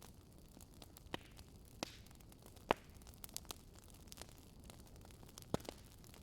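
Wood fire crackling quietly: scattered sharp pops and snaps over a low steady hiss, the loudest pop a little under three seconds in and another strong one near the end.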